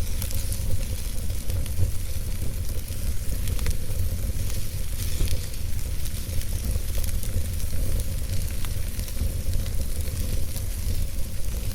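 Campfire burning: a steady hiss with scattered sharp crackles and pops from the burning wood, over a constant low rumble.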